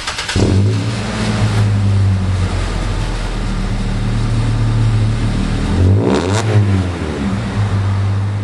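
Pickup truck engine running steadily, its pitch dipping and rising briefly about six seconds in.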